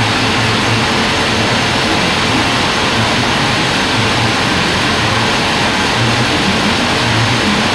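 Band sawmill running: a loud, steady mechanical noise with a low hum underneath that wavers slightly.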